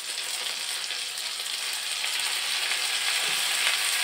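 Sliced onions and green chillies sizzling in hot soybean oil in a frying pan, with a lump of garlic paste just added on top. The sizzle grows steadily louder.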